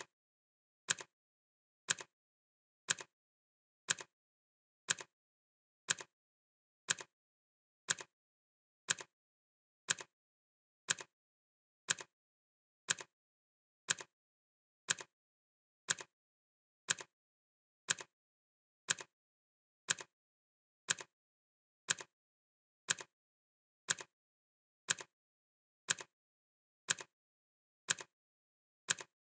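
Clock ticking sound effect: one short, sharp tick every second, perfectly even, with silence between ticks.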